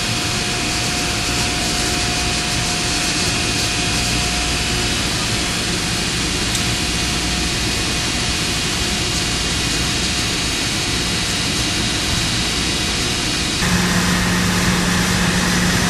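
Steady roar of industrial plant machinery, a dense noise with faint humming tones. About fourteen seconds in the sound changes suddenly, getting a little louder as a steady low hum comes in.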